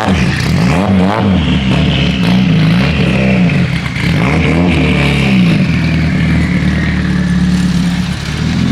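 Turbocharged KA24DET four-cylinder engine in a Nissan 240SX, revving up and down several times and then holding a steady speed for the last few seconds, with a high whine over it.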